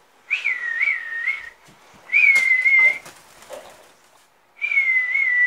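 Three long whistled notes, each about a second long, held near one pitch with a slight waver. They come at the start, about two seconds in, and near the end.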